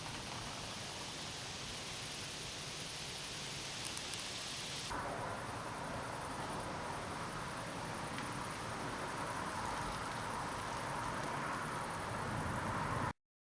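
Steady rain falling in a thunderstorm, a continuous hiss. Its character changes abruptly about five seconds in, and it cuts off suddenly near the end.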